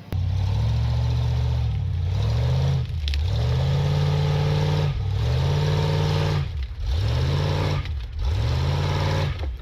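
Truck engine revving hard and repeatedly, its pitch climbing and dropping back about every second and a half.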